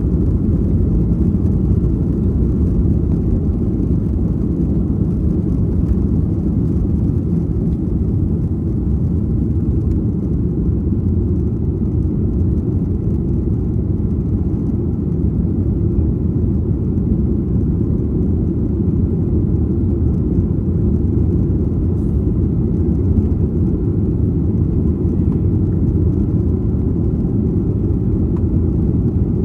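Steady low rumble of a Boeing 737-800's CFM56-7 jet engines and airflow heard inside the cabin, even and unchanging throughout.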